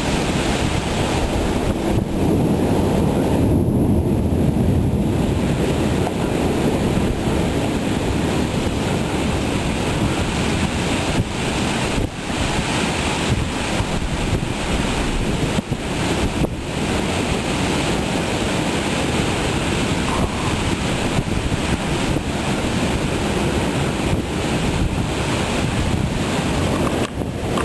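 Severe thunderstorm winds blowing hard and steady, with stronger gusts buffeting the microphone, loudest a few seconds in.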